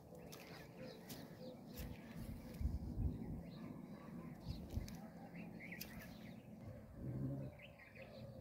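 Scattered bird chirps and calls over faint outdoor ambience, with a few low thuds about three seconds in.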